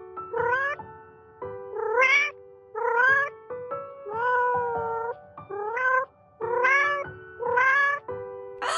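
Kitten crying: a string of about seven high mews that rise in pitch, roughly one a second, with one longer call in the middle. A short harsh noisy burst comes right at the end. Background music with held tones runs underneath.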